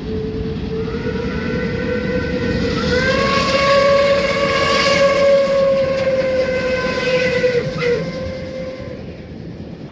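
A passing train sounds a long horn blast over the rumble of the train. The horn's pitch rises a little about three seconds in, falls as it goes by around eight seconds in, and then the horn stops.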